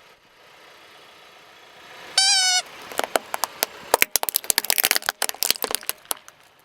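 Objects crushed under a car tyre: a short honk-like squeak about two seconds in, then a run of sharp cracks and crackles for about three seconds.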